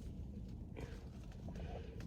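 A person chewing food close to the microphone, with soft wet mouth noises and faint clicks.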